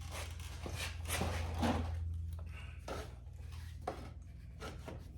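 Irregular scraping, rubbing and knocks of metal motorcycle parts being handled and fitted by hand, over a low steady hum.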